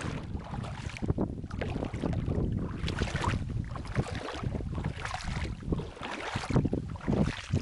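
Strong, gusty wind buffeting the microphone: a rumbling rush that swells and dips from gust to gust.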